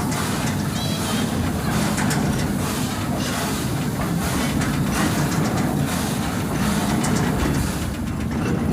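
Steady low rumble and light clatter of a railway wagon rolling along the track, heard from aboard.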